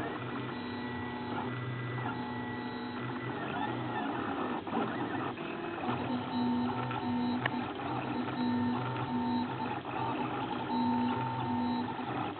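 A RepRap desktop 3D printer running a print: its stepper motors whine in short steady tones that change pitch and stop and start every second or so as the print head moves, over a constant mechanical hum.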